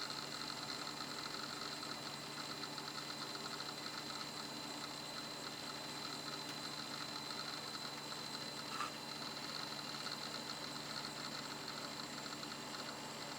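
2 GB laptop hard disk drive from a Toshiba Libretto 50CT running: a steady spinning hum with a high whine, over faint rapid ticking. One short click sounds about nine seconds in.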